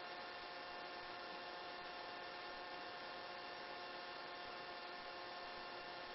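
Faint steady electrical hum with several thin steady tones and hiss on the helicopter's headset intercom line, with no one transmitting.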